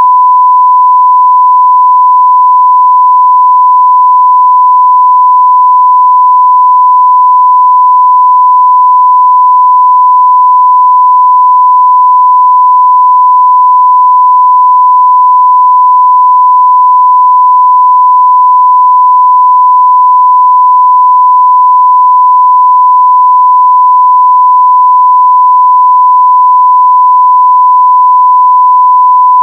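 A continuous 1 kHz sine-wave test tone at full level (0 dB), one pure steady pitch with no change.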